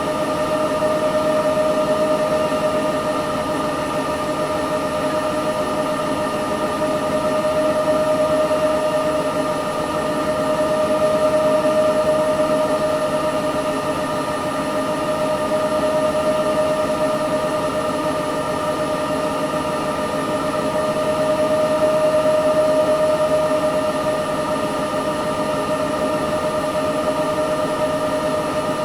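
Candy Smart Inverter front-loading washing machine running, its inverter motor giving a steady whine over a rushing noise that slowly swells and fades every few seconds.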